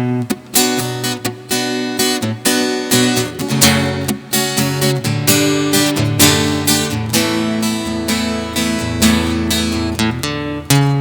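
Acoustic guitar strummed in a steady rhythm, playing the chord introduction to a song.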